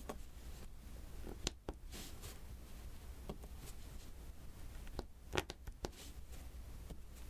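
Diamond-painting drills being tapped onto the sticky canvas with the applicator pen: a handful of small sharp clicks at irregular intervals, with soft rustling between them.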